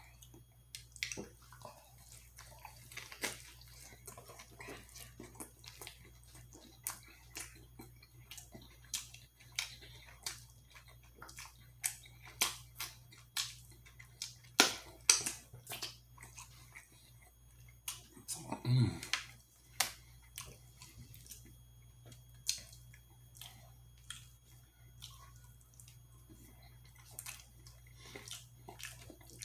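Close-miked chewing: a person eating, with irregular wet mouth clicks and smacks throughout and a short hummed "mm" about two-thirds of the way through, over a steady low electrical hum.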